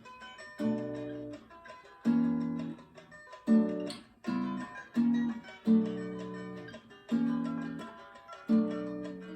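Acoustic guitar playing an instrumental samba intro: a series of chords struck with sharp attacks, each left to ring and fade before the next.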